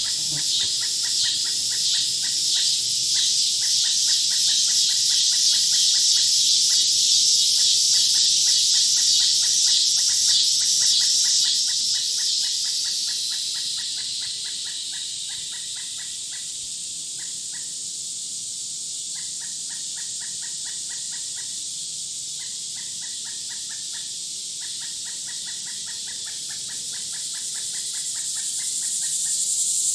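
Insect chorus in the woods: a loud, high, pulsing buzz that fades away after about thirteen seconds, over a steady, rapidly pulsed chirping that comes in repeated bursts throughout.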